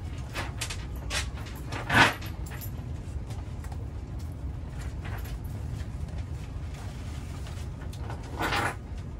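A person chewing and eating a taco, with scattered short crunchy mouth sounds and a louder one about two seconds in and again near the end, over a steady low rumble.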